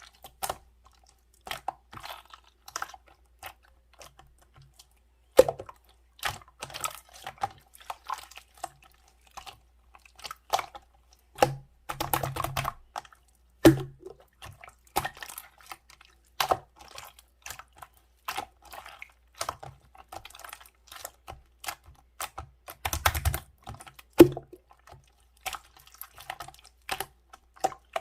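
Irregular close-up clicking and tapping, a few clicks a second with short pauses, and denser rattling clusters twice.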